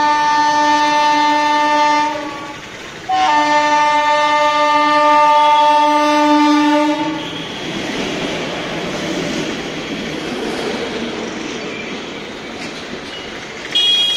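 Indian Railways WAP-class electric locomotive sounding two long blasts on its horn, the second about four seconds long. The rumble and wheel clatter of the express's coaches rolling past follows, with a brief horn beep near the end.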